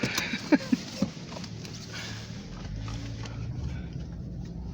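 Steady low rumble of a car driving on snowy roads, heard from inside the cabin, with a few brief squeaks and knocks in the first second.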